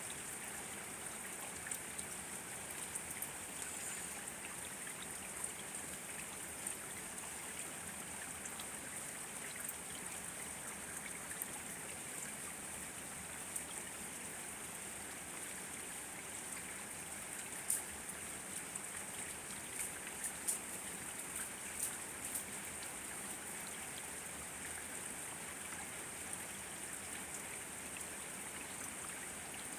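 Steady rain falling, an even hiss with scattered louder drops ticking, more of them about two-thirds of the way through.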